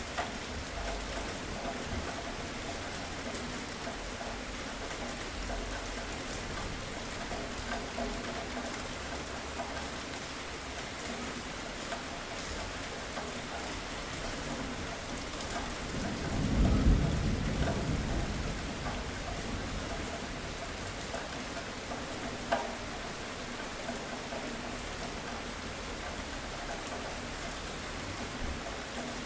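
Steady rain falling, with a low rumble of thunder about halfway through that swells and fades over about three seconds. A single sharp tap stands out a few seconds after the thunder.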